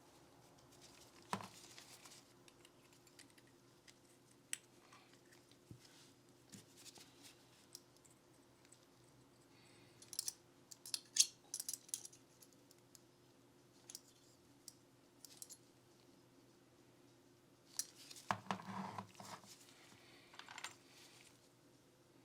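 Scattered small clicks and taps from Glock 19 pistol parts being handled and worked on, with a run of quick clicks about halfway through and another cluster near the end. A faint steady hum lies underneath.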